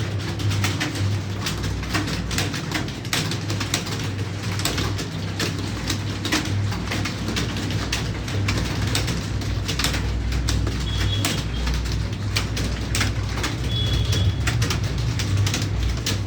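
Computer keyboard being typed on fast, a dense irregular run of key clicks, over a steady low hum.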